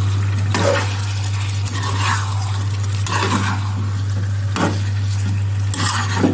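Chicken pieces frying in ghee on a high flame, sizzling as they are stirred with a metal spatula in a black pan. The spatula scrapes and clatters against the pan about once a second, over a steady low hum.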